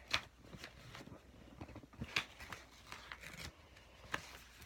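A sheet of sketchbook paper being handled: a few short, scattered rustles and crinkles.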